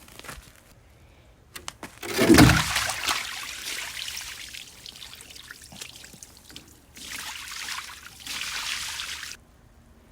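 Water from a hose being poured and sprayed onto a backyard ice rink being flooded. There is a loud gush about two seconds in that tails off, then a steady spray that starts up and cuts off suddenly near the end.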